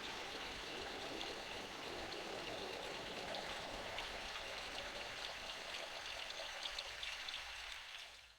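Steady rain falling in a forest, a soft even hiss with scattered drops pattering. It fades out just before the end.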